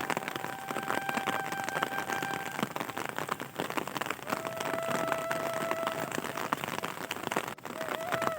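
Rain falling steadily, a dense patter of drops on surfaces, with two faint held tones of a couple of seconds each under it.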